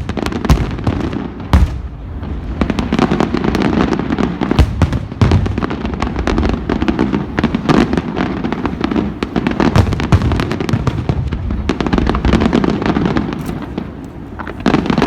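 Aerial fireworks bursting: two loud bangs in the first two seconds, then a dense, continuous crackle of many small pops, with more bangs near the end.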